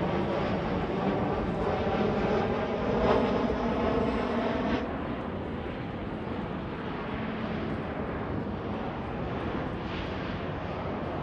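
Jet airliner passing at the airport, its engines making a loud rushing noise with a pitched hum in it, loudest about three seconds in. About five seconds in the sound drops suddenly to a quieter, steady rush.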